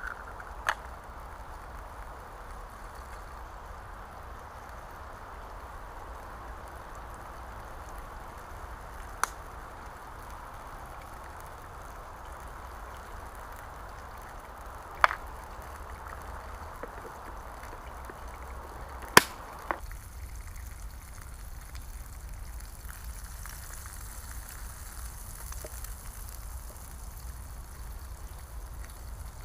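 Eggs, bacon and sausage sizzling in a pan over a wood campfire, with a handful of sharp pops and cracks from the fire. About two-thirds of the way through the sizzle drops and a thinner, higher hiss takes over.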